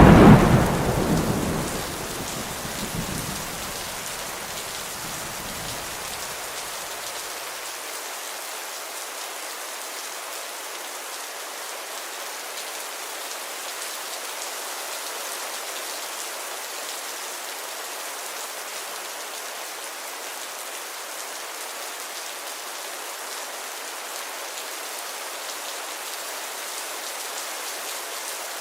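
Steady heavy rain falling. A loud peal of thunder breaks right at the start and rumbles away over about six seconds, leaving only the even hiss of the rain.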